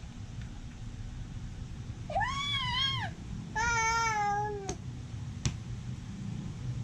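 A baby's two high-pitched squealing cries, the first rising and wavering for about a second, the second a little longer and slowly falling in pitch, over a steady low background hum.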